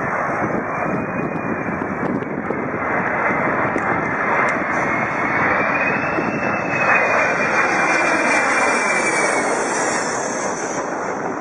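Aircraft engine running, a steady rushing noise with a faint whine that rises in pitch around the middle and then slowly falls.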